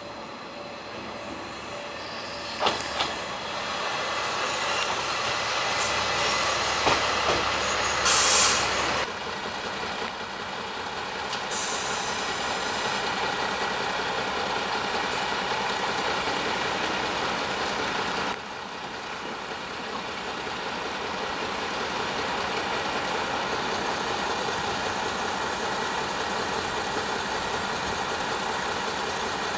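Kanto Railway Joso Line diesel railcar pulling in, with a steady rumble and a few clicks, then a short loud burst of air hiss about eight seconds in. After a sudden change, a bus engine idles steadily.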